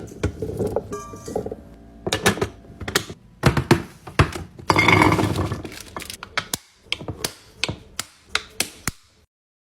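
Drinks and food containers being set down during a fridge restock: a string of light knocks and clinks of bottles, cans and containers against each other and the shelves, with a brief ringing clink about a second in and a short rustling stretch around five seconds in. The sound drops to dead silence just before the end.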